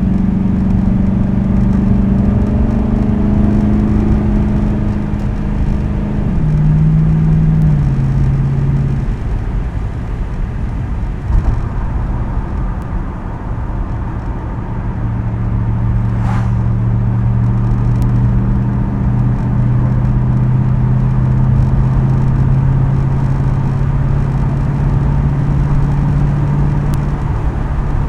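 2010 Ford Crown Victoria Police Interceptor's 4.6-litre V8 running through a custom quad-tip exhaust while the car is driven. The engine note steps down in pitch a few times in the first nine seconds, then holds at steady cruising revs.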